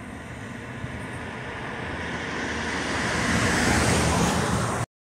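Rumble of an approaching CSX freight train, growing steadily louder, then cutting off abruptly near the end.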